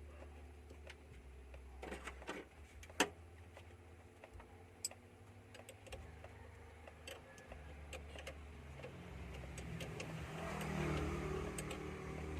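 Vehicle engine running with a steady low hum, with scattered sharp clicks and taps over it. The engine sound swells about nine seconds in and is loudest near the end.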